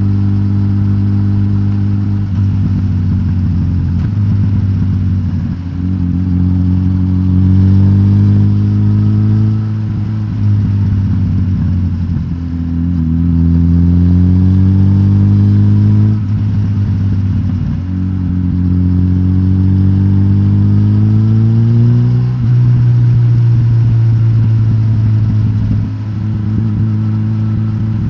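Suzuki GSX-S1000GT's K5-derived inline-four engine, de-catted through the stock exhaust, under way. Its pitch climbs three times and drops back between climbs, as with gear changes, then holds steady near the end.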